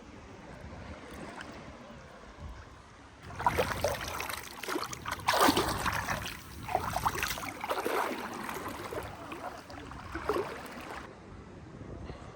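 Sea water washing and splashing at the shoreline, starting about three seconds in and dying away near the end, over a quiet steady background.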